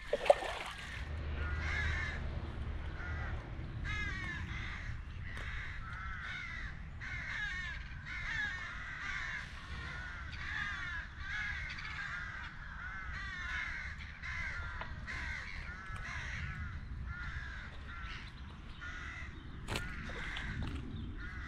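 A bird calling over and over, one or two short calls a second, after a sharp knock at the start.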